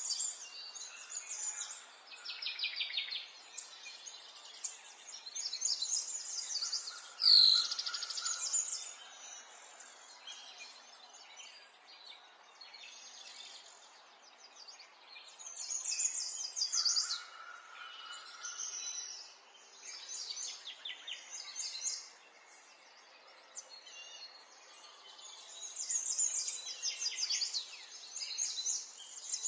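Several birds singing and calling, with rapid high trills that come and go in waves. One loud sweeping call stands out about seven seconds in.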